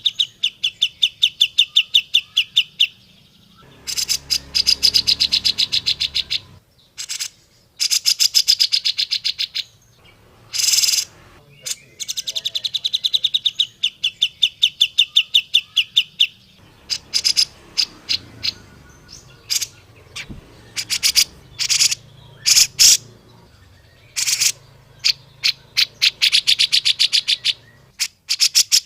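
Cucak jenggot (grey-cheeked bulbul) calling: loud bursts of rapid, repeated chattering notes, about ten a second, each burst lasting two to three seconds, with single sharp notes between the bursts.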